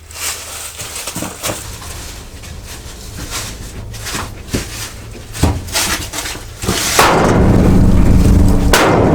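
Scattered knocks and clanks of tools on metal, then a loud, steady power tool or motor starts about seven seconds in and keeps running.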